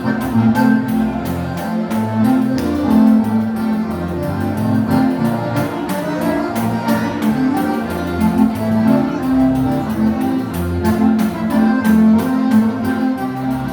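Instrumental gaúcho dance-band music: an accordion (gaita) melody over a bass line and a steady drum beat.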